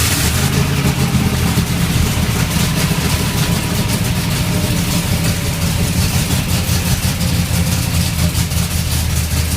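Big V8 engine of a mud-bog mega truck running steadily at a constant low speed, its exhaust crackling but not revving.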